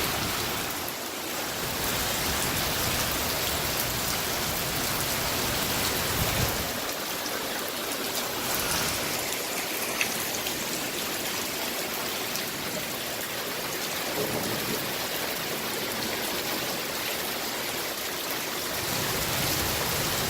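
Heavy rain pouring steadily in a storm, a dense even hiss with a low rumble swelling at times.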